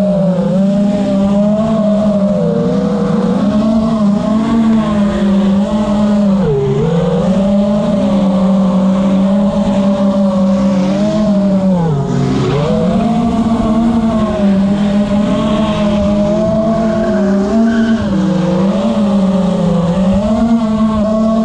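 FPV quadcopter's brushless motors and propellers whining at a steady, high pitch, dropping briefly in pitch twice as the throttle eases, with fainter rising and falling engine notes underneath.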